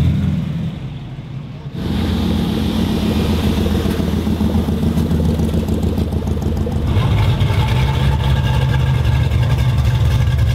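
Car engine running with a steady low rumble, briefly quieter about a second in, its sound changing about seven seconds in.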